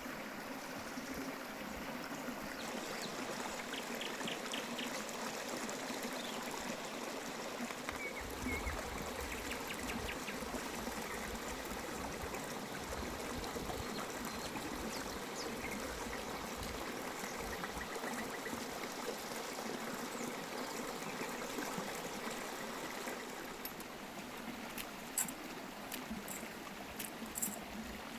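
Water running and trickling steadily, with a few short sharp clicks near the end.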